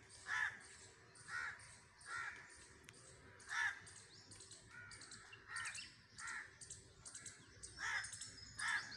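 Birds calling in the trees: one bird's repeated calls come roughly once a second, with fainter high chirping from smaller birds behind them.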